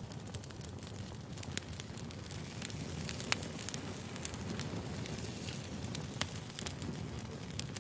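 Wood fire crackling: a steady hiss of burning with scattered sharp pops and snaps at irregular moments.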